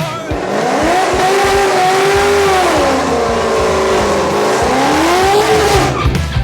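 Performance car engine revving high and holding, sagging once around the middle and climbing again before it cuts off near the end, over a steady hiss.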